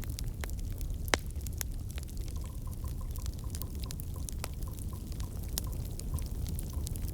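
Campfire crackling over the low steady rumble of burning wood, with frequent small sharp pops and one louder pop about a second in.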